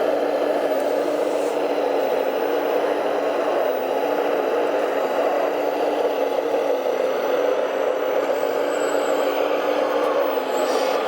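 Electric motor and gear drive of a radio-controlled model truck running steadily, a continuous whirring hum with one constant pitch.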